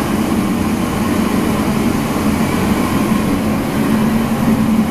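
Loud, steady mechanical hum and rushing noise of a large canteen kitchen's machinery.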